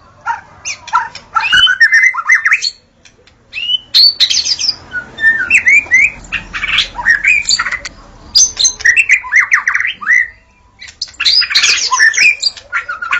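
White-rumped shama (murai batu) singing: fast, varied phrases of sweeping whistles and chattering notes, broken by short pauses about three seconds and ten and a half seconds in.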